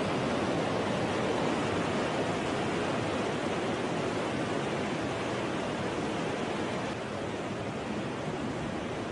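Tsunami floodwater rushing inland: a steady, dense rush of water, a little quieter about seven seconds in.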